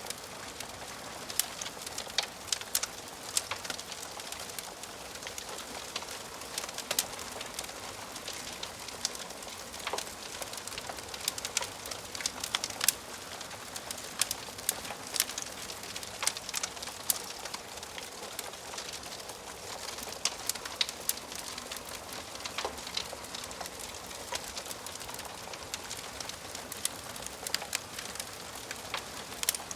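Wood fire crackling in a fireplace: a steady soft hiss with many irregular sharp pops and snaps, a few louder ones.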